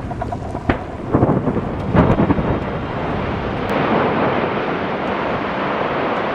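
Rock blast: a sharp crack, then heavy rumbling bursts about one and two seconds in, settling into a steady thunder-like rumble as the blasted rock mass slides down.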